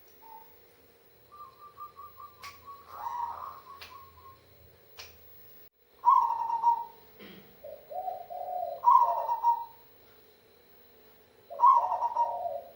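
Zebra dove (perkutut) cooing its 'kung' song: a quick run of soft notes, then three loud phrases a few seconds apart, each a higher note falling into lower rolling notes. A few sharp clicks come between the first phrases.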